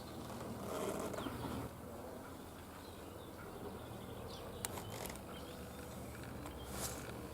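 Small birds giving a few short, faint chirps over a low steady hum, with a single sharp click about four and a half seconds in.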